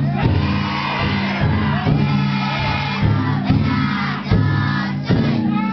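Futon daiko festival float: a crowd of bearers shouting a chant over repeated beats of the float's big taiko drum.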